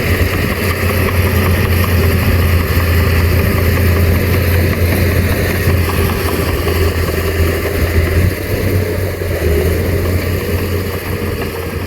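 Heavy diesel engine of earthmoving machinery running steadily with a deep, constant hum, beginning to fade near the end.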